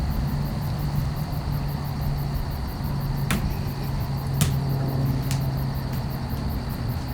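Outdoor ambience: a steady low hum, like a distant engine, that drops out briefly near the middle, under a rapid, even high chirping of insects. Three sharp clicks come in the second half.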